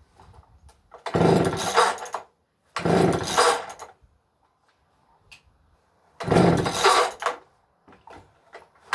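McCulloch two-stroke chainsaw being pull-started cold without the choke: three pulls on the recoil starter cord, each about a second long, turning the engine over without it catching.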